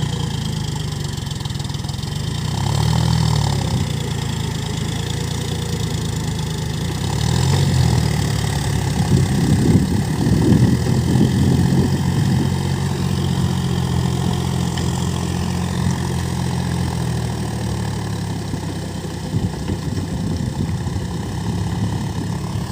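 John Deere 5050D tractor's three-cylinder diesel engine running steadily, its pitch swelling up and back down twice, with a rougher, louder stretch in the middle.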